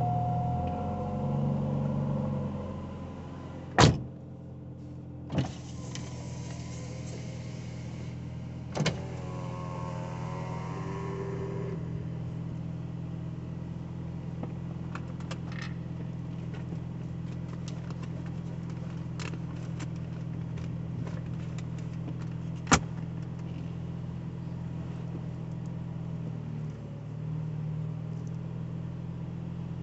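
1985 Cadillac Cimarron's engine idling steadily, heard from inside the cabin, louder for the first few seconds and then settling. A few sharp clicks sound over it, and a brief wavering whine comes about nine to twelve seconds in.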